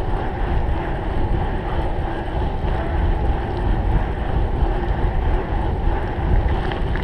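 Wind buffeting the microphone of a camera on a cyclocross bike being raced: a steady rushing noise with heavy rumble.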